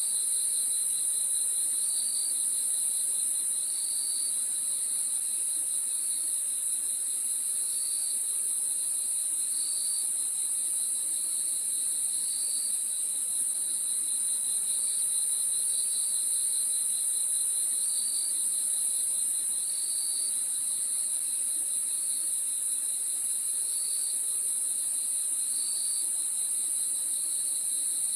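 Night chorus of crickets: a steady high-pitched shrill trill with a second, lower pulsing trill, and short chirps repeating about every second or two.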